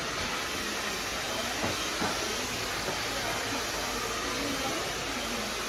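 Hair dryer running with a steady rushing hiss.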